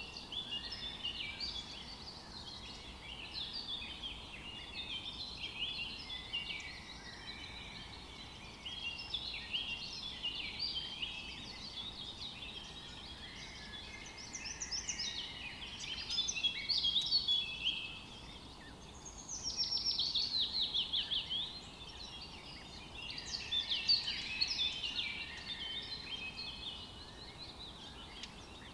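A forest chorus of several songbirds singing and chirping, phrases overlapping continuously over a faint steady hiss. About two-thirds of the way through, one bird gives a quick run of notes sliding downward in pitch.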